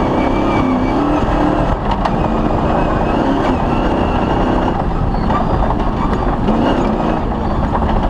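Off-road rally car's engine running hard at speed over a dense rumble, its pitch rising and falling as the throttle varies.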